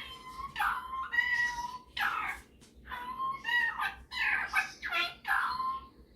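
Superb parrot (Barraband parakeet) vocalising: a run of about ten short pitched calls and chatter, some with briefly held notes, typical of its mimicked talking and singing.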